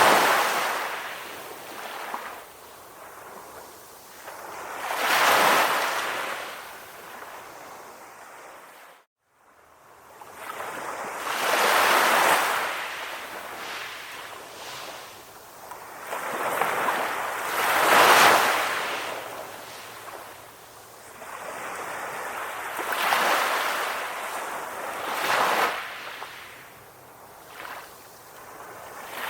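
Ocean waves surging in and washing back, one swell about every five or six seconds. The sound drops out completely for a moment about nine seconds in.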